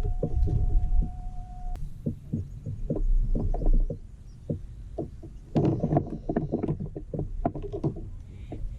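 Irregular small knocks and taps of gear being handled against a kayak's plastic hull, with a faint steady tone for the first couple of seconds.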